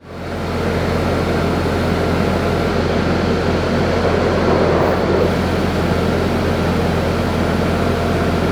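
A fan or blower running steadily: a loud, even rush of air over a low hum, with a few faint steady tones above it.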